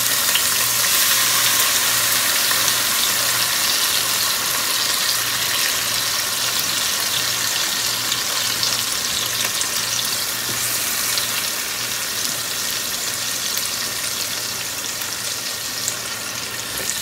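Wet chopped spinach sizzling in hot oil with cumin in a frying pan, a steady hiss that eases a little over the seconds, with a spatula stirring it near the end.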